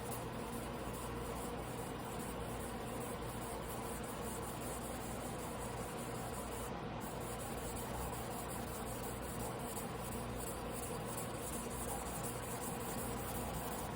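Damascus carbon-steel sashimi knife being hand-sharpened on a whetstone: steady, quick back-and-forth scraping strokes of steel on stone.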